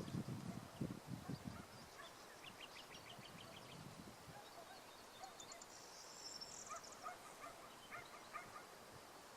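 Faint outdoor birdsong: a quick run of short notes a couple of seconds in, a high trill around the middle, and scattered chirps near the end. Low thumps die away in the first second and a half.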